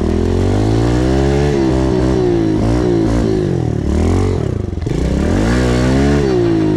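A 110 cc pit bike's single-cylinder engine is revving hard, its pitch climbing and falling several times. It drops away sharply about two-thirds of the way through, then climbs again.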